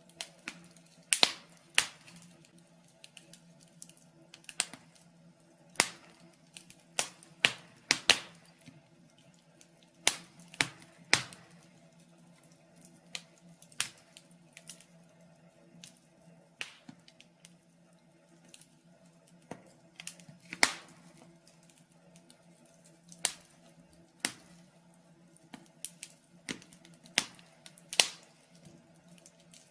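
Wood fire in a fireplace crackling: irregular sharp pops and snaps, sometimes two or three close together, over a faint steady low hum.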